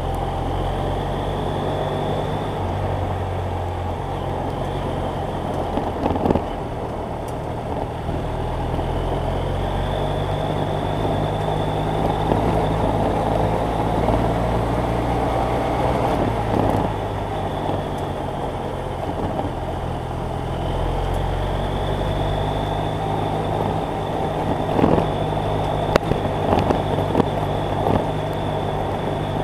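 BMW F800GS Adventure's parallel-twin engine running under way, its note stepping up and down a few times, over steady wind and tyre noise. A few sharp knocks come through, several of them near the end.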